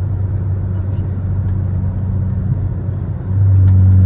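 Chrysler 300's engine droning steadily while cruising. It gets louder about three seconds in as the car accelerates, and its pitch starts to climb at the very end.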